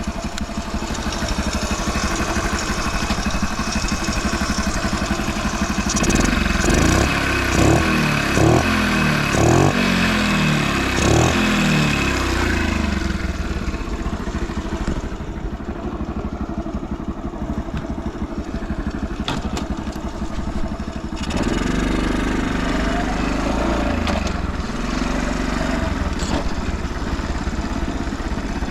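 Honda Motra's 49 cc four-stroke single-cylinder engine idling, blipped up and down several times in quick succession between about 6 and 13 seconds in, then given a few lighter blips near the end before settling back to idle. The seller calls the engine quiet, with no abnormal noise.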